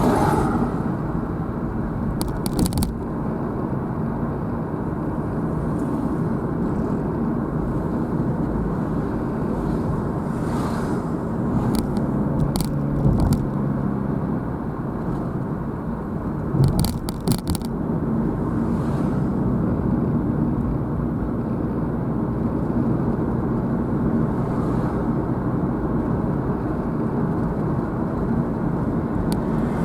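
Car driving steadily, heard from inside the cabin: a continuous rumble of tyre and engine noise, with a few brief clicks and knocks, about 2, 12 and 17 seconds in.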